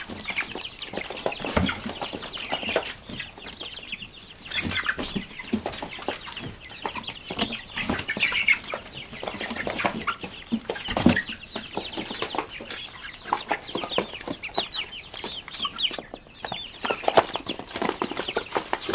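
A flock of four-week-old Cornish Rock cross meat chicks, mixed with young laying hens, cheeping and clucking constantly while they crowd in to feed. Many sharp taps and some wing flapping sound among the calls.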